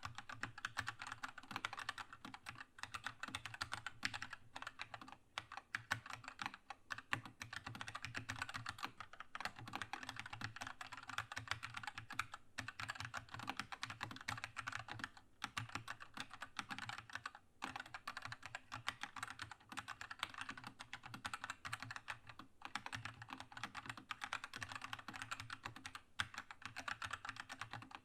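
Continuous fast typing on a Keychron K2 mechanical keyboard with linear red switches: a dense stream of key clicks and clacks with only brief pauses.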